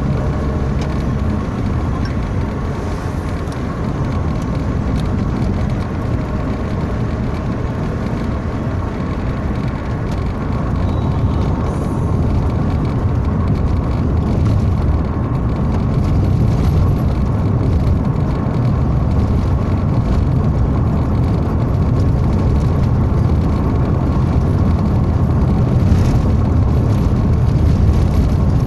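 Steady low rumble of a motor vehicle on the move, engine and road noise without a clear pitch, growing slightly louder over the second half.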